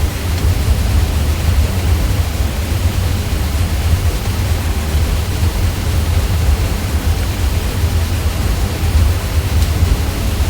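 Ceiling fan running: a steady low hum with an even hiss above it, unchanging throughout.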